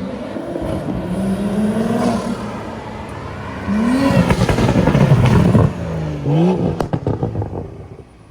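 Car engines revving and accelerating hard, the pitch climbing sharply twice, loudest between about four and six seconds in, then fading away near the end.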